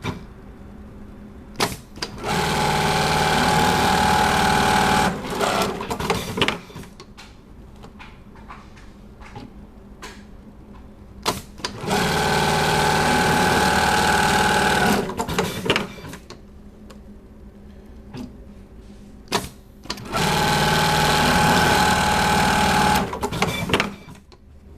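Keyhole buttonhole sewing machine sewing three buttonhole cycles. Each cycle opens with a sharp click, then about three seconds of steady, fast stitching, then ends in a scatter of clicks.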